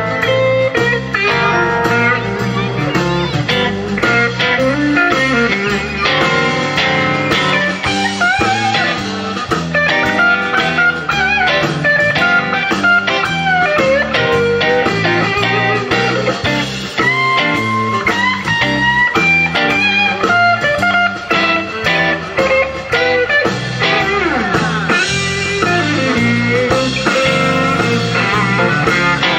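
Live blues-style band music: an electric guitar plays a lead line with bending notes over a steady bass line and drums.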